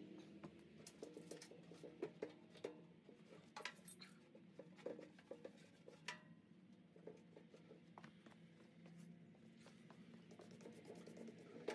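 Near silence: a faint low hum with scattered light clicks and taps, a few sharper ones around two, three and a half, five and six seconds in.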